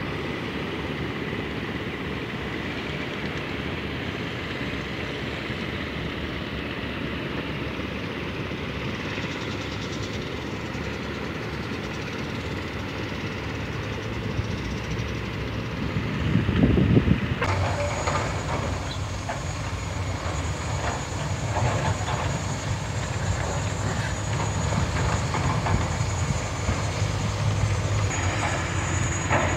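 Sany SR150C rotary drilling rig travelling on its crawler tracks: the diesel engine runs steadily while the steel tracks clank. The sound changes abruptly about two-thirds through, after which the track clanks come thick and fast.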